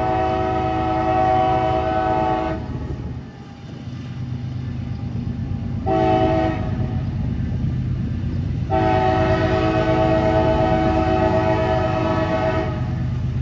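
CSX freight locomotive's air horn sounding a chord in three blasts, a long one, a short one about six seconds in and another long one, the long-short-long that ends a grade-crossing signal. A steady low rumble of the train runs underneath.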